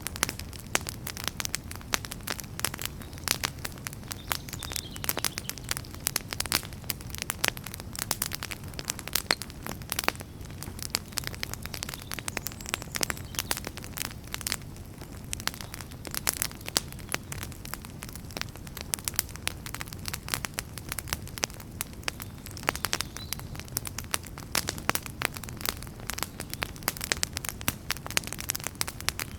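Wood fire in a fireplace crackling: frequent, irregular sharp pops and snaps from the burning logs over a steady low rumble of the flames.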